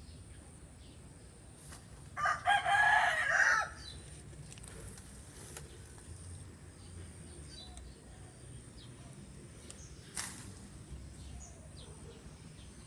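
A rooster crows once, a loud call lasting about a second and a half, starting about two seconds in. A short sharp click follows about ten seconds in, over a faint steady outdoor background.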